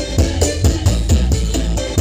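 Loud dance music with heavy bass and a steady beat of about four strikes a second, played through a carnival sound system with 25-inch subwoofers.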